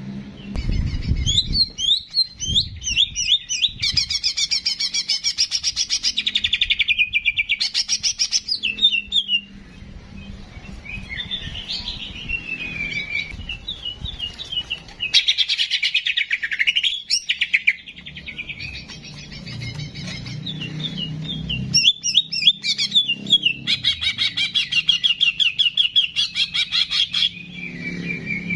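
Songbird singing in bursts of rapid trills and chirps, some sliding down in pitch, with short gaps between phrases, over a faint low hum.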